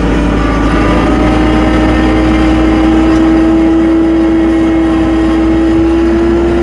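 Tractor running as it drives off, with a steady whine that rises a little in pitch in the first second and then holds.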